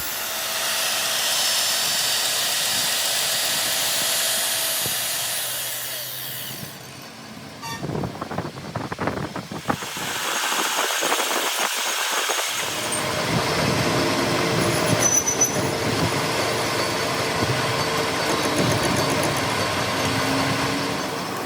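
Workshop power-tool noise: a steady hissing run for the first several seconds, then after a break a rougher, rattling mechanical run.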